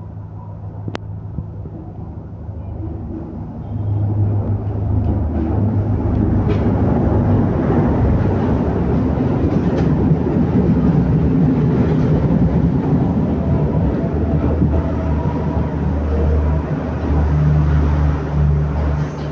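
Express train approaching and passing. A low steady engine hum is joined by wheel and rail noise, growing markedly louder about four seconds in and staying loud.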